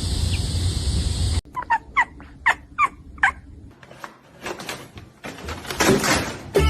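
A steady hiss and rumble cuts off suddenly. Then an animal gives five short calls in quick succession, each rising then falling in pitch, followed by scattered clicks and rustling noise.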